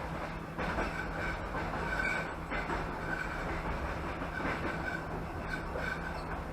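Passenger train coach running along the track, heard from inside: a steady rumble of wheels on rails, with short high-pitched squeaks coming and going and a few knocks.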